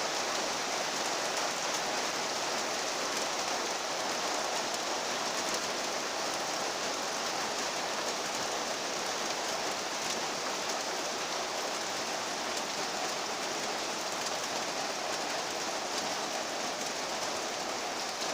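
Steady rain falling, a constant hiss of drops on surfaces.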